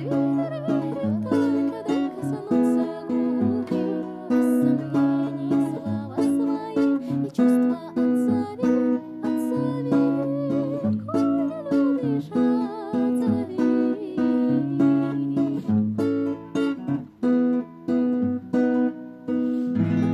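Acoustic guitar strummed in a steady rhythm, with a voice singing over it in places. A last chord is struck near the end and left ringing.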